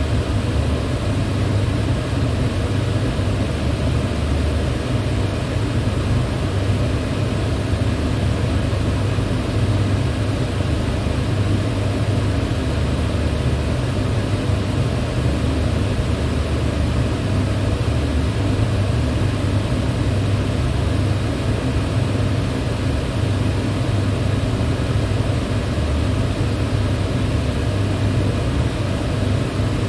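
Electric fan running steadily: an even whooshing hum, deepest and strongest at the low end, with no change in speed.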